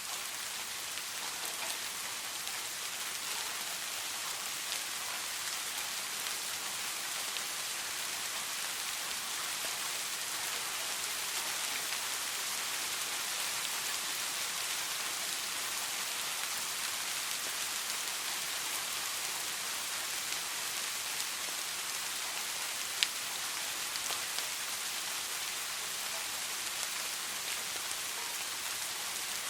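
Steady rain falling, an even hiss of many drops. A single sharp click stands out about three-quarters of the way through.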